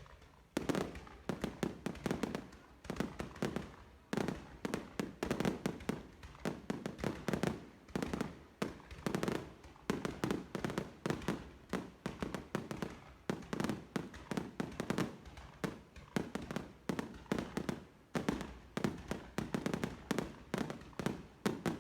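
Fireworks going off in a rapid, unbroken barrage of sharp bangs and pops, several a second.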